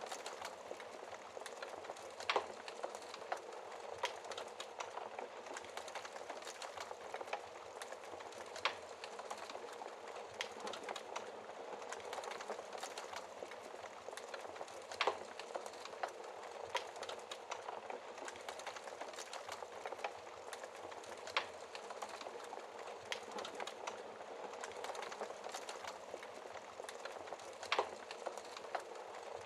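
Wood fire burning in a fireplace: a steady hiss of flames with frequent small crackles and a louder pop every few seconds.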